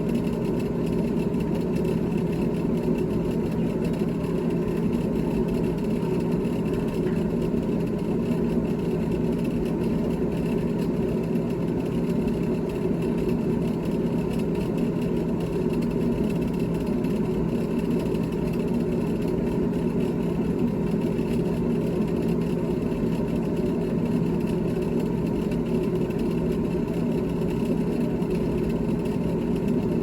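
GE GTH18XCTZRBB refrigerator running with a steady, unchanging mechanical hum made of several constant tones.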